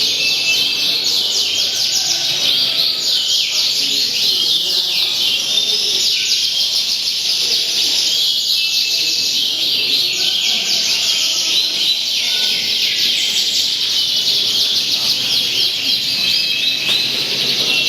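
Many caged songbirds singing at once at a songbird contest: a dense, unbroken tangle of rapid chirps and trills, with a low murmur of voices underneath.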